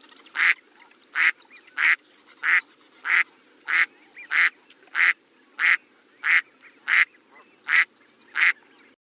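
A duck quacking in a steady, evenly paced series, about thirteen short quacks, one every two-thirds of a second.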